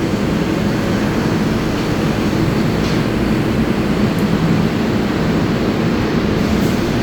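Steady low rumble of a New York City subway train on the 7 line at the station.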